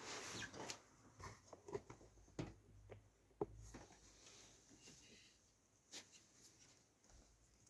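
Faint, scattered clicks and light knocks of computer hardware being handled and fitted, with one sharper click about three and a half seconds in.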